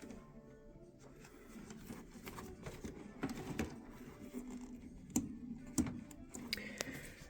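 Scattered clicks and light knocks of tools and parts being handled on a furnace blower motor, over a faint steady background.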